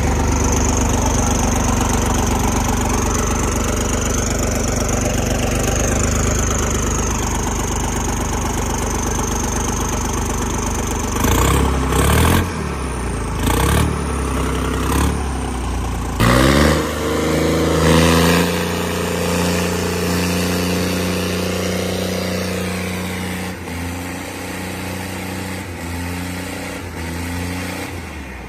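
Diesel tractor engine running steadily, then revved in several short bursts about halfway through before settling back to a steadier note that drops slightly in level near the end.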